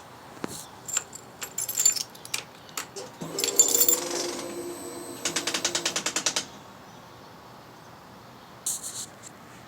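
2011 Suzuki GSX-R 600 switched on with the key: a scatter of sharp clicks, then a steady whirring hum with a fast run of clicks, about nine a second, for about a second, and two more clicks near the end. The clicking comes from a sticking exhaust servo, which a motorcycle shop traced to the bike's aftermarket exhaust; it also set the FI warning light.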